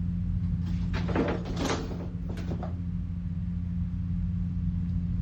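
Steady low droning hum, with a short burst of noisy rustling and knocking sounds from about one to two and a half seconds in.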